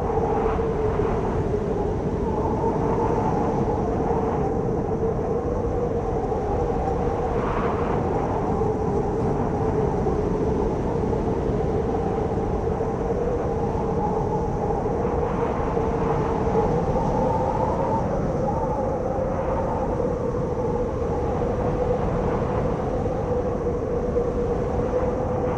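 Howling wind: a steady rush with a low moaning tone that wavers slightly in pitch, cutting off suddenly at the end.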